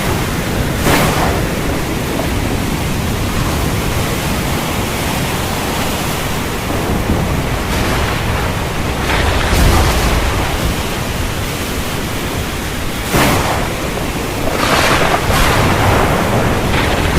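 Thunderstorm rain and wind as a steady rushing noise, with short sharper bursts every few seconds and a low rumble of thunder about ten seconds in.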